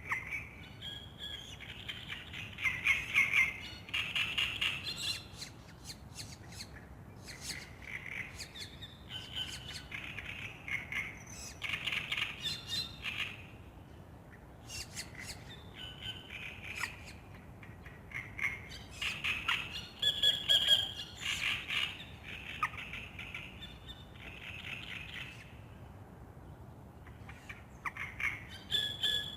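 Songbirds singing in a dawn chorus: bursts of high, chattering song a few seconds long, separated by short pauses.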